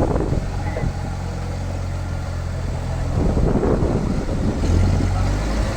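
A heavy engine running steadily at the sawmill, growing louder for a couple of seconds past the middle.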